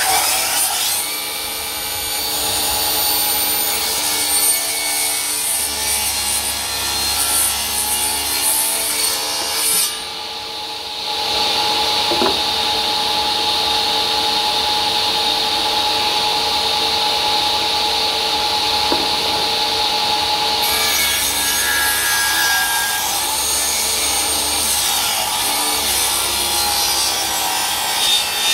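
1950 Tanner table saw running and cutting wood: a steady motor and blade hum with the noise of the blade cutting over it. About ten seconds in the sound drops briefly, and a long, even cut follows until about twenty seconds in.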